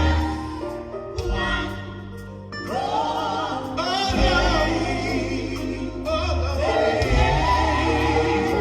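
Live gospel group singing with band accompaniment, several voices together over low sustained notes and a steady beat. The music drops quieter about a second in, and the voices come back in strongly near three seconds.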